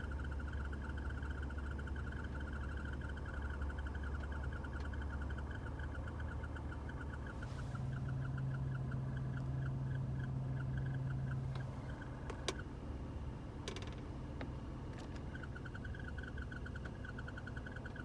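Fan in a car with a BMW M54B30 straight-six running: a rapid, rhythmic chirping over a steady low hum, heard only when the fan is on. The chirping cuts out about twelve seconds in, a few sharp clicks follow, and it returns a few seconds later.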